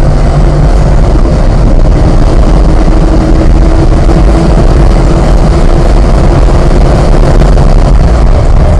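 Car engine pulling hard at full throttle down a straight at over 100 mph, upshifting from fourth into fifth gear, under a loud, steady rush of wind and road noise.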